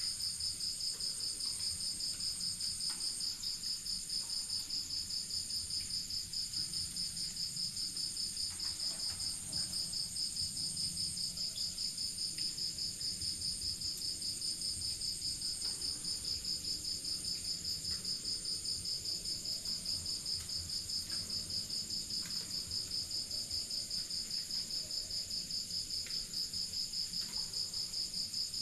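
Crickets chirping in a steady chorus of rapid, even pulses, several insects singing at different high pitches at once.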